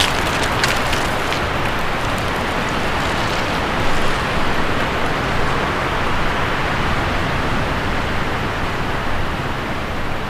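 Steady rushing road and wind noise inside a moving car, with no distinct events. The highest hiss fades a little about halfway through.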